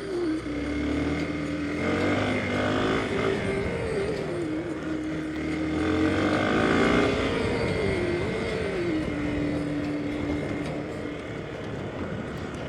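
Hero XPulse 200's single-cylinder engine running under way, its pitch rising and falling with the throttle, with two stronger climbs about two and six seconds in.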